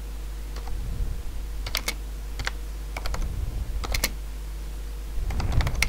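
Typing on a computer keyboard: irregular key clicks, some in quick little runs, over a steady low hum.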